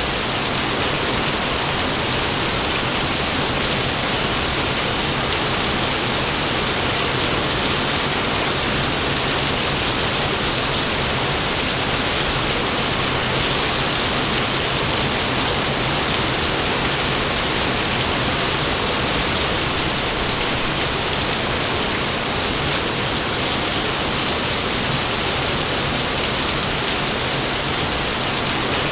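Heavy rain falling steadily, a constant even wash of noise with no thunder.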